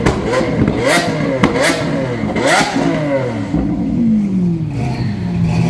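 Lamborghini Aventador V12 being revved in quick blips, its pitch rising and falling several times with a few sharp exhaust cracks, then dropping back to a steady idle before another short rev at the end.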